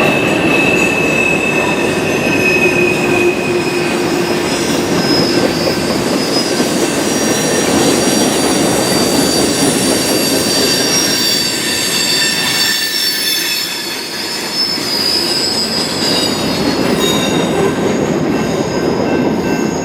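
Freight train cars rolling past, steel wheels squealing on the rail in thin high tones over the steady rumble and rattle of the cars.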